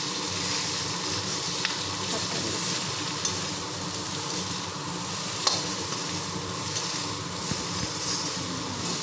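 Pork frying with onions, ginger-garlic and green chillies, sizzling steadily in an oiled kadai on a low gas flame. A spatula stirs and clicks against the pan a few times, the sharpest knock about five and a half seconds in.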